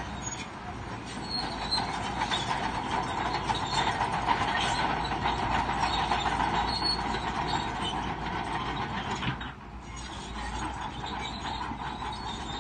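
Crawler bulldozer working: steel tracks clanking and squealing over a low engine rumble, easing briefly about nine and a half seconds in.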